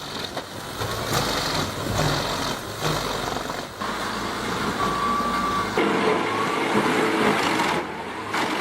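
Heavy forestry machinery working: a dense, noisy mix of diesel engine and mechanical working noise that changes abruptly a few times. A brief steady whine sounds about five seconds in.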